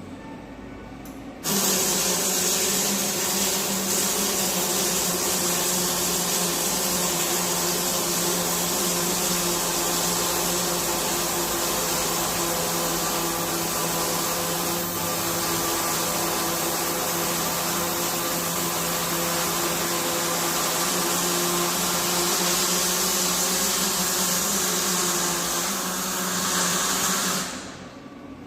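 Arc welder laying one continuous weld on a chassis frame: the arc strikes about a second and a half in, runs steadily with an even hiss over a low hum, and cuts off about a second before the end.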